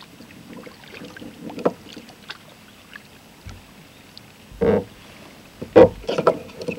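Kayak paddling: small splashes and clicks of the paddle in the water, with two louder bouts of knocking and splashing in the second half.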